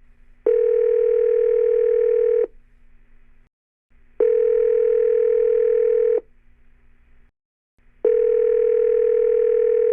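Telephone ringback tone: a steady pitched tone sounding three times, each about two seconds long and about four seconds apart, the sign of a call ringing out before it is answered.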